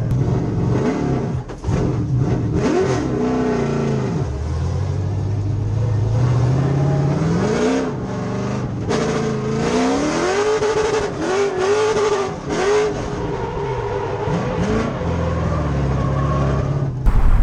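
6.0-litre LS V8 (LQ9) of a Nissan 240SX drift car revving up and down under constant throttle changes through a drift, its pitch rising and falling again and again, with a brief lift about a second and a half in.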